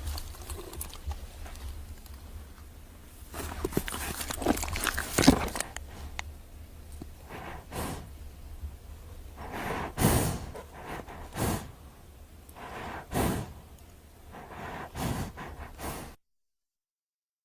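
Horse breathing: a series of short, noisy breaths about every one to two seconds, with a run of clicks around four to five seconds in. The sound cuts off abruptly about a second before the end.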